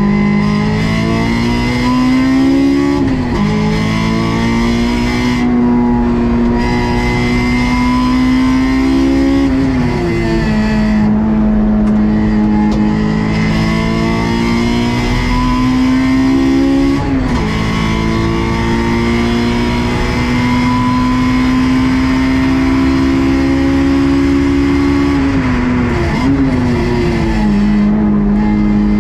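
Honda S2000 (AP2) stock 2.2-litre four-cylinder engine running hard. Its pitch climbs slowly for several seconds and then drops sharply about four times, at gear changes or lifts off the throttle.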